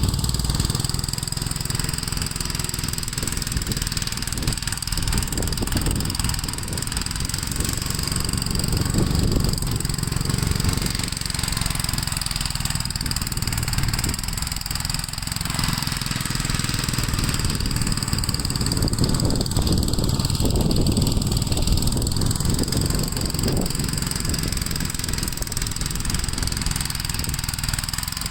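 Gravely L8 walk-behind tractor's engine running steadily while plowing snow, its sound rising and dipping slightly with the load.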